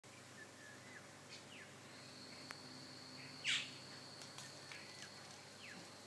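Birds calling in a tree: scattered short chirps that fall in pitch, with one much louder, sharp downward-sweeping call about three and a half seconds in. A thin, steady high note runs under them through the second half.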